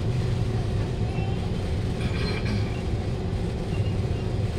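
Kawasaki Heavy Industries C151 metro train running, heard from inside the carriage: a steady low rumble of wheels on track and traction equipment, with a brief higher hiss about two seconds in.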